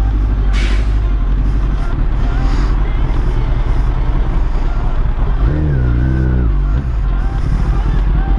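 Kawasaki Ninja ZX-10R inline-four running through a full Akrapovic titanium exhaust while riding in traffic, with heavy wind rumble on the microphone. The engine note wavers down and back up about two-thirds of the way through.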